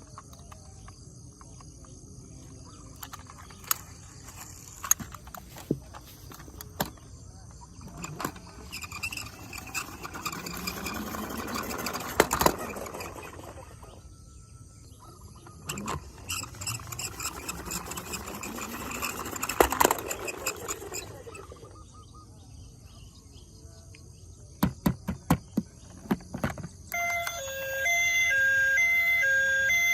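Toy emergency vehicle's electronic siren switching on near the end, a loud two-tone wail alternating steadily between pitches. Before it, scattered clicks and two swelling rushes of noise from handling the toys.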